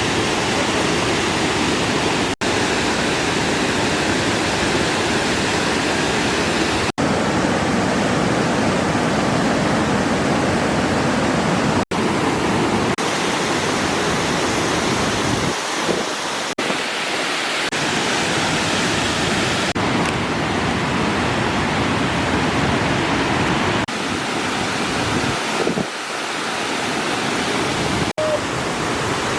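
Steady rush of water pouring over a waterfall, broken by a few split-second dropouts where clips are cut together.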